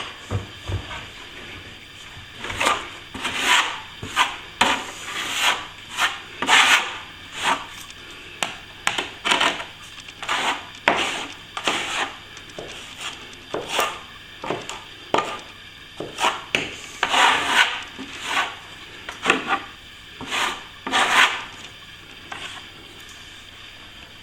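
A hand tool scratching and scraping a plasterboard surface in short, irregular strokes about once a second, roughening the old painted face so new filler will grip.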